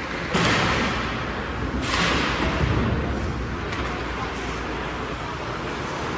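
Ice hockey game sound at the rink: two swells of hissing noise, one just after the start and another about a second and a half later, over a steady background murmur.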